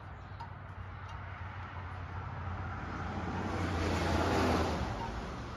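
A passing vehicle: a rushing noise that swells to a peak about four seconds in, then fades.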